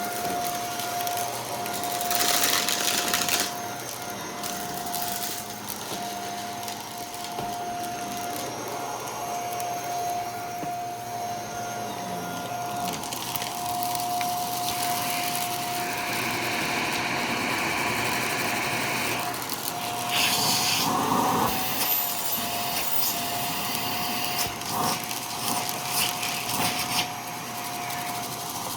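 Vacuum cleaner running with a steady motor whine, with several louder stretches of rattling and crunching as hard debris is sucked up.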